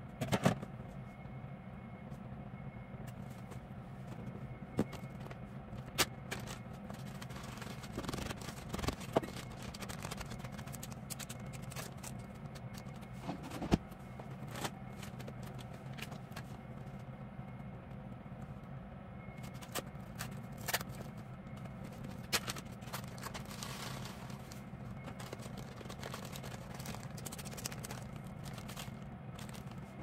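Kitchen work: scattered light clicks, taps and scrapes of utensils and containers over a steady low hum.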